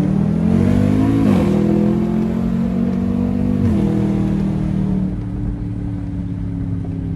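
Jeep Grand Cherokee Trackhawk's 6.2-litre V8 accelerating with its supercharger blown. Its pitch climbs and drops at an upshift about a second in, climbs again and drops at a second upshift near four seconds, then holds at a steady cruise.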